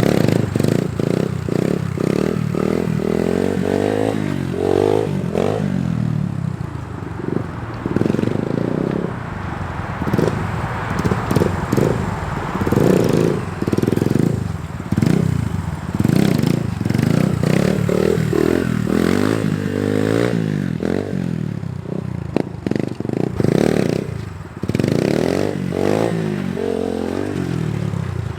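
Small dirt bike engine revving up and easing off again and again, its pitch rising and falling in repeated surges, as when practising wheelies.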